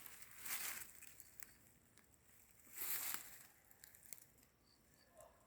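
Footsteps crunching through dry fallen leaves on a forest trail: a couple of separate crackling steps, about half a second in and again about three seconds in.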